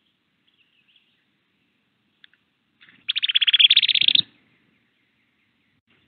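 A songbird close to the microphone gives a loud, rapid chattering run of repeated notes lasting just over a second, about halfway through. Faint scattered chirps come before it, and a soft bump sounds near its end.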